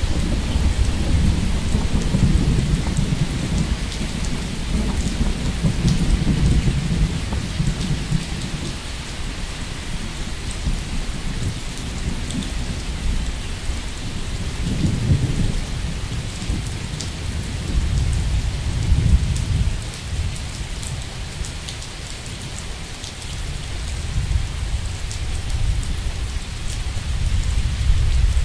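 Steady rain falling, with low rolling thunder that rumbles on and off and swells several times.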